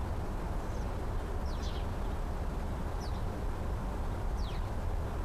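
A small bird repeating a short, high, downward-sweeping chirp about every second and a half, over a steady low rumble.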